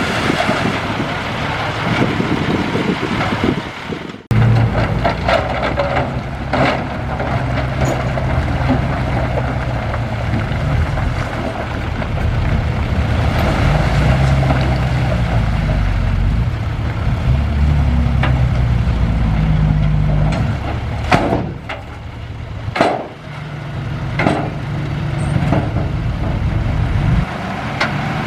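Heavy diesel earthmoving machinery running and working, its engine pitch rising and falling with load. It breaks off briefly about four seconds in, and there are several sharp clanks and knocks, most of them in the later part.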